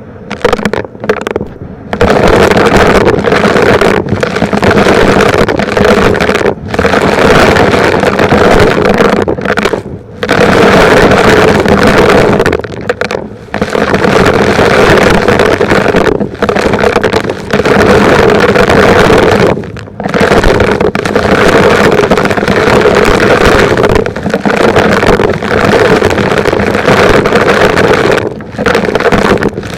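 Vacuum cleaner running loudly, sucking up small rocks and grit, its steady motor note broken by brief drops in the sound every few seconds.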